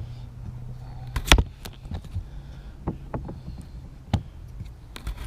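Knife cutting through seed potatoes: a few sharp, separate knocks and clicks, the loudest about a second in.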